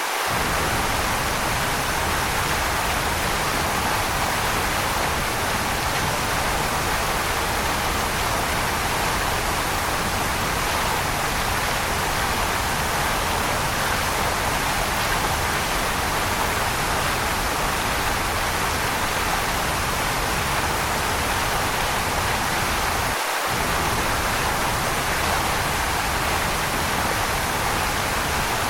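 Waterfall: a steady, even rush of falling water, with no breaks or changes. Its low rumble drops out for an instant about 23 seconds in.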